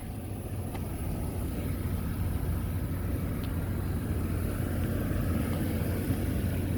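Steady low rumble of a running vehicle engine, growing a little louder over the first couple of seconds and then holding steady.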